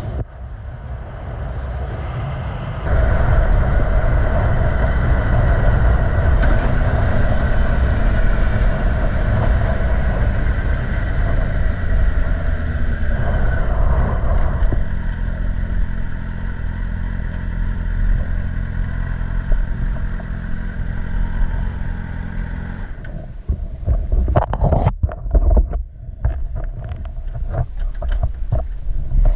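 Yamaha FZ6 Fazer's 600cc inline-four engine running at highway speed under heavy wind noise, getting louder about three seconds in. For the last several seconds it gives way to irregular knocks and wind buffeting.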